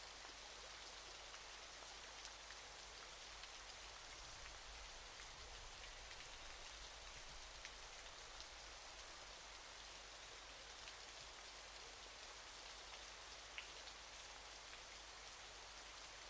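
Faint, steady hiss of a waterfall's falling water, with scattered small ticks of splashing drops.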